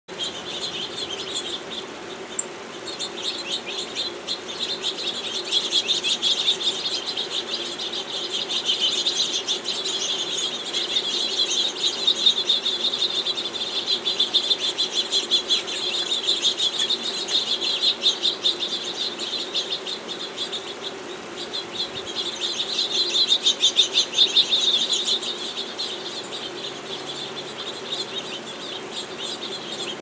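Small birds chattering in rapid, high twittering trills that swell and fade in several waves and grow softer near the end.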